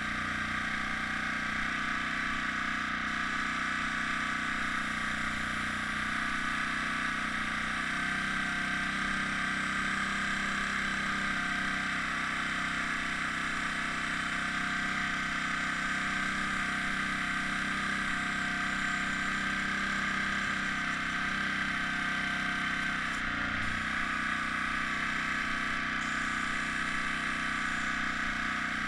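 Air compressor running steadily, a constant hum with a high steady whine and hiss, changing slightly in tone a couple of times.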